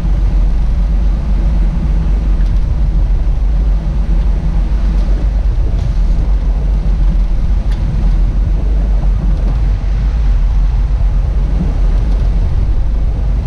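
A fishing boat's engine running steadily underway: a loud, even, low drone.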